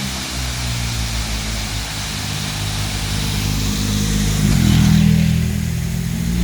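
A vehicle engine running, its low hum shifting in pitch and growing louder about four and a half seconds in, over a steady rush of falling water from a waterfall.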